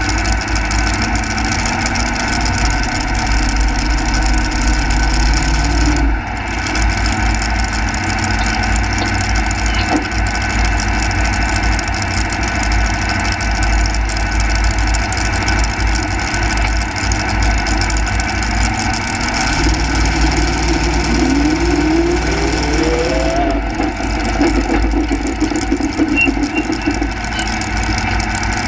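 Single-engine modified pulling tractor's engine running steadily at idle. About twenty seconds in, a whine rises in pitch for a couple of seconds.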